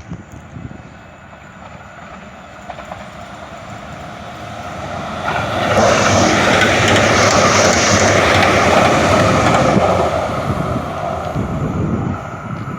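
A loud passing vehicle: its noise swells over a few seconds, holds, then fades.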